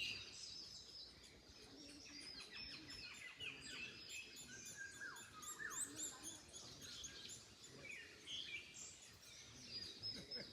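Several small songbirds chirping and singing, many short high notes and quick downward slurs overlapping, over a faint low background rumble of wind.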